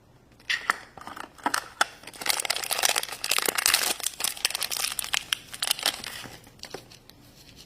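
Thin plastic packaging crinkling and tearing as a small toy wrapper is opened by hand: a run of rustles and sharp crackles that is busiest in the middle and dies down near the end.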